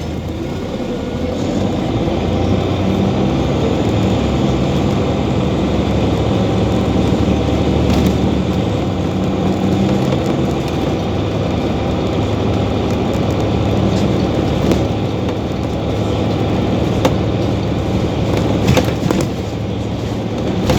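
Scania OmniCity city bus running, its engine note stepping up and down in pitch as it pulls away and shifts, with a few sharp clicks and rattles, a cluster of them near the end.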